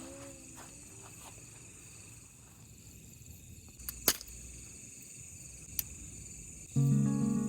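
Night insects such as crickets chirping steadily, with two sharp clicks about four and six seconds in. Music starts near the end.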